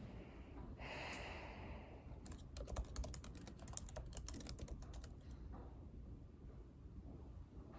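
Typing on a computer keyboard: a quick run of keystroke clicks lasting about three seconds, over a low steady room hum. A brief rustle comes just before the typing starts.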